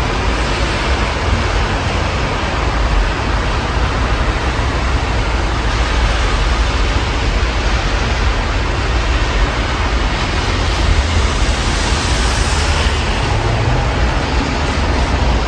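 Steady rain hiss heard through an open window, over a low rumble of city traffic. The hiss swells briefly about twelve seconds in.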